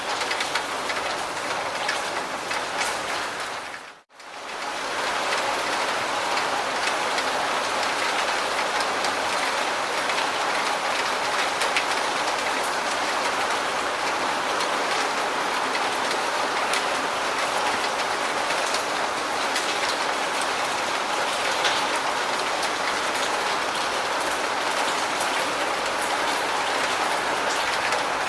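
Steady rain falling, an even hiss of many drops. About four seconds in it fades out to near silence for a moment and comes straight back, like a join between two recordings.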